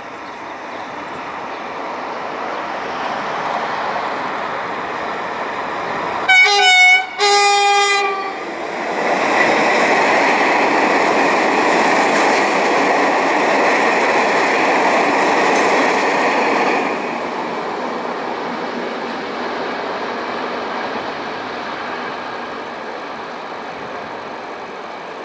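Euro 4000 diesel-electric locomotive approaching, its sound growing louder, then sounding its horn in two short blasts about six seconds in. It passes loudly at speed with a container freight train, whose wagons roll by and fade away near the end.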